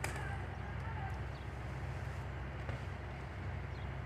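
An engine running steadily at idle, a low rumble.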